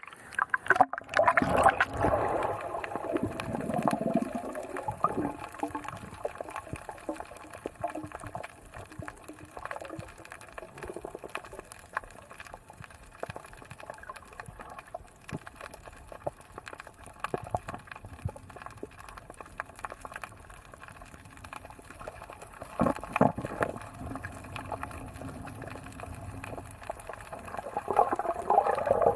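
Sea water sloshing and bubbling around a camera in a waterproof dive case as it moves through the water, with many small crackles. Louder splashy stretches come near the start and again near the end.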